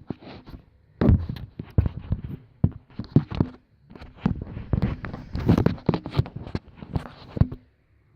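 Irregular knocks, clunks and clatter, many in quick uneven succession with short pauses, from hands-on work on a truck's cooling system: tools and parts being handled and set down.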